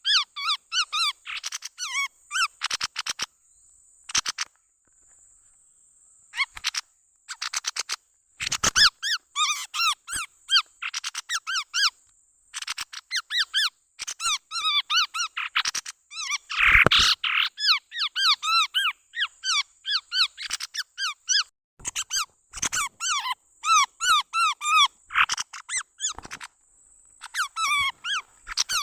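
Chestnut-rumped babbler calls, played as a bird-trapping lure: rapid runs of short, squeaky chirping notes in bursts, with a couple of brief pauses early on.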